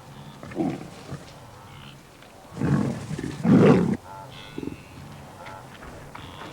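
Lion growling and snarling: a short growl about half a second in, then a louder, longer snarl lasting over a second around the middle, and a brief growl after it.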